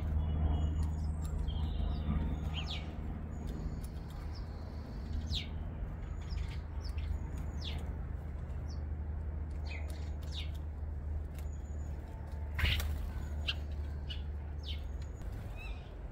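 Garden birds calling with short, high chirps and whistles, scattered throughout, over a steady low rumble. A single brief, louder noise comes about three-quarters of the way through.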